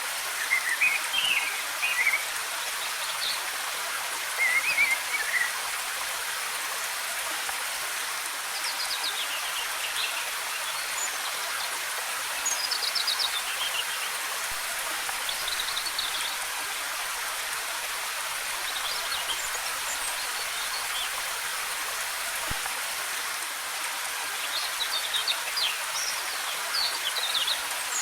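Waterfall water rushing in a steady hiss, with forest birds chirping in short bursts of quick notes every few seconds, busiest near the end.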